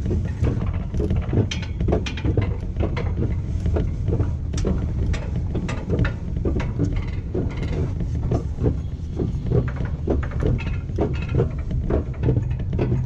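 Wiegand alpine coaster sled running along its steel rail: a steady low rumble with rhythmic clattering clicks, about two to three a second, as the wheels pass over the track.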